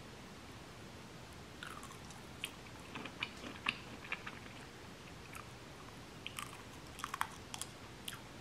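A person eating close to the microphone: soft chewing of a mouthful of jumbo shrimp, with scattered faint clicks and smacks of the mouth and fork through most of it.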